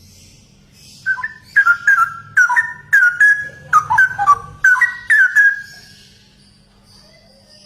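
Straw-headed bulbul (cucak rowo) singing: a loud burst of quick, rich whistled notes that starts about a second in and lasts about four seconds, then stops.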